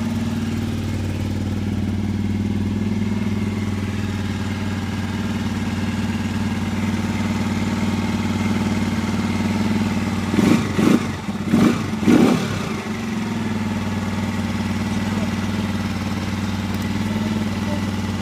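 Motorcycle engine idling steadily while warming up, with three quick throttle blips about ten to twelve seconds in before it settles back to idle.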